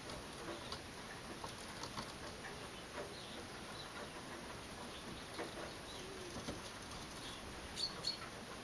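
Birds at a feeder table: scattered short chirps and clicks over a faint steady background, with two sharper high chirps near the end.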